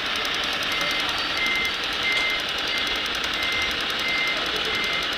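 Reversing alarm beeping, about three short beeps every two seconds, over steady mechanical running noise from the RC construction machines.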